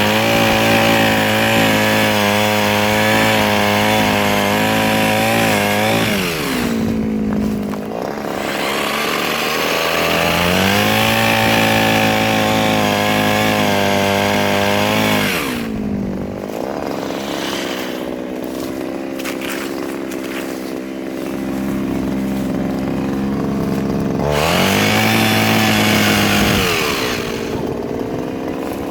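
Mini chainsaw run up to full speed and held there for several seconds, three times over. Between the bursts it falls back to a lower, steady speed, with a long stretch at the lower speed in the middle.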